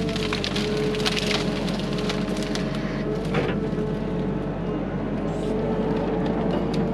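Hyundai HX85A excavator's diesel engine running steadily under load, with wood cracking and splintering as the machine breaks up trees and brush. The cracking is sharpest in a cluster about a second in and again in a burst near the middle.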